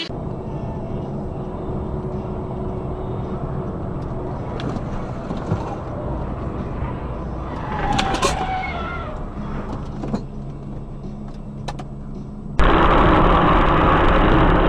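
Steady engine and road noise heard from inside a moving car, with a short sliding, wavering sound about eight seconds in. Near the end the sound cuts abruptly to a louder, duller rush of road noise.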